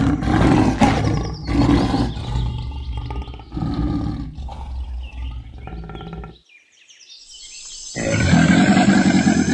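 Cheetah growling and snarling in a series of rough, low calls, which stop suddenly about six seconds in. Near the end a different loud, rough call starts over a steady high hiss.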